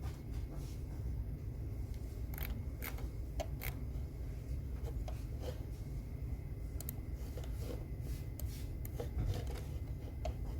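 Scattered light clicks, taps and rustling from desk work, irregular and spaced apart, over a steady low room hum.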